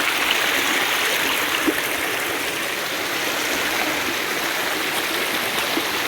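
Shallow stream water rushing and babbling over rocks, loud and steady, with one short tap a little under two seconds in.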